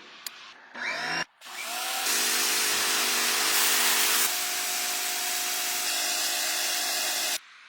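Bosch electric high-pressure washer starting up with a rising whine, then running steadily with the loud hiss of its water jet over the motor-pump hum. The sound shifts about halfway through and stops abruptly near the end.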